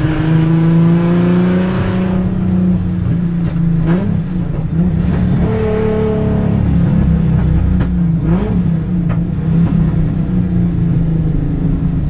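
Turbocharged Ford Barra inline-six race engine under hard acceleration, heard from inside the car's cabin. Its pitch climbs over the first couple of seconds, then rises and falls several times, with a few short sharp cracks in between.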